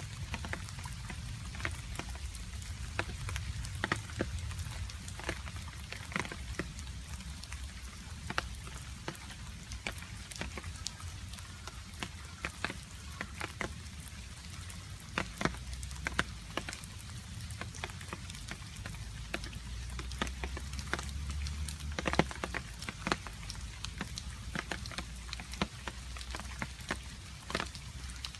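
Rain falling, with many irregular water drops dripping and tapping close by over a soft hiss of rain and a low background rumble.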